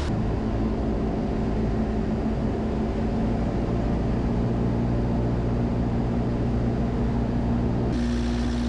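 Cessna 172S's four-cylinder Lycoming engine and propeller droning steadily on final approach. Near the end the pitch steps up slightly and the hiss gets brighter.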